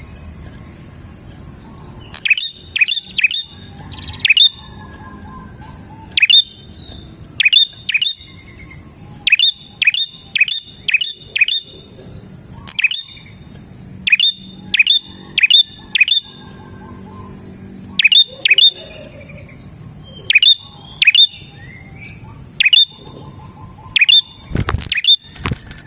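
Prenjak (prinia) singing vigorously: loud, sharp chirps that sweep down in pitch, in quick runs of two to five notes repeated every second or two, starting about two seconds in. A steady high-pitched drone runs behind, and there is a brief low thump near the end.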